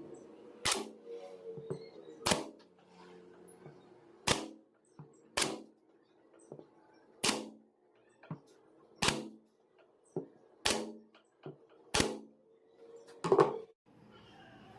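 A series of about nine sharp knocks, spaced a second or two apart and strongest near the end, over a faint steady hum.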